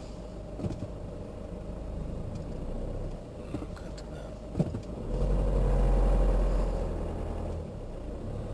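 Taxi's engine and road noise heard from inside the cabin while driving. About five seconds in, a louder low engine drone swells for a couple of seconds, then eases back. Two faint clicks come before it.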